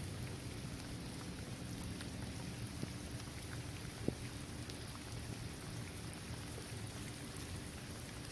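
Steady rain falling on a hard court surface, trees and grass, with scattered individual drops ticking and one sharper tap about four seconds in.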